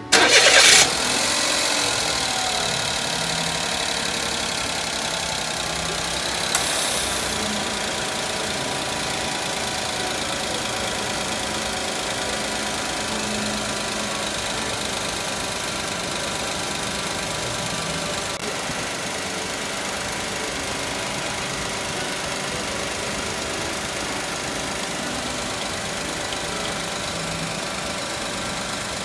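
Suzuki Wagon R MH21S's 660 cc three-cylinder engine starting with a loud burst, then idling steadily. A brief louder rush comes about six seconds in.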